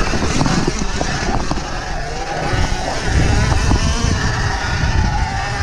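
Surron Ultra Bee electric dirt bike riding rough single track: the electric motor's whine wavers up and down with the throttle, over heavy wind buffeting and rumble on the microphone and scattered knocks and rattles from the rough ground.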